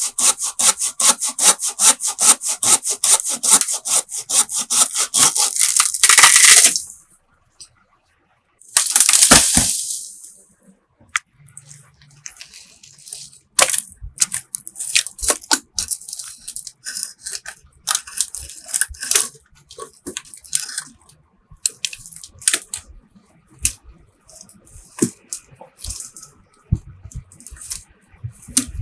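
Hand saw cutting wood in quick, even strokes, which stop after about six seconds. About nine seconds in comes one loud burst of noise, then scattered knocks, taps and rustles of wood being handled.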